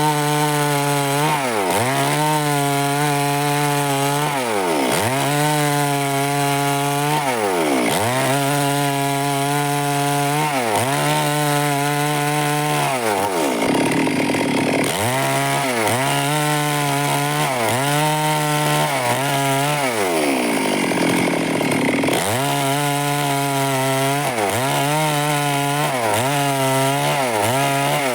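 Stihl chainsaw cutting through wood. Its engine note drops each time the chain bogs into the cut and climbs back again, over and over every second or few, with two longer low-pitched stretches under heavier load.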